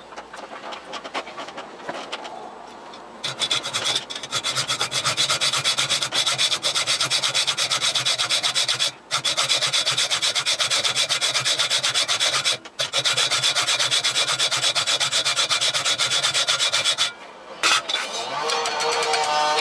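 Metal being worked on a running lathe: a loud, steady rasping scrape over a low hum, starting about three seconds in and breaking off briefly three times.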